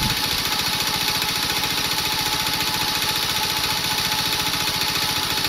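Honda Little Cub's small four-stroke single-cylinder engine idling steadily through its stock muffler, an even rapid putter.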